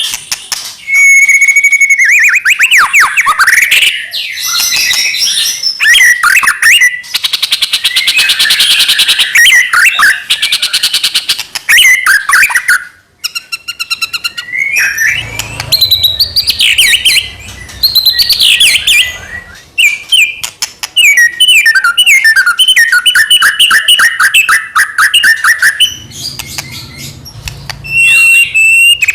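White-rumped shama (murai batu) singing a long, varied song of whistles, rattling trills and fast runs of repeated notes, with only brief pauses between phrases.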